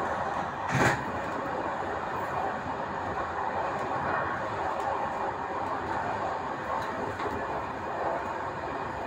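Passenger train running along the track, heard from its rear end: a steady rumble of wheels on rails, with one sharp knock about a second in.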